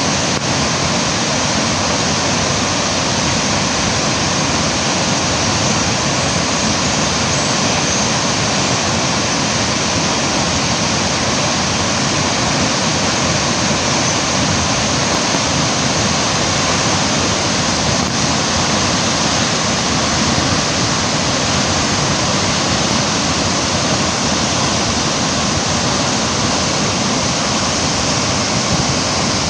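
Thomson's Falls waterfall: water plunging in a loud, steady rush that does not let up.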